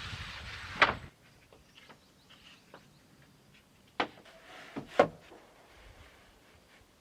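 A rustling scrape that ends in a sharp knock about a second in, then three sharp knocks close together around four to five seconds in.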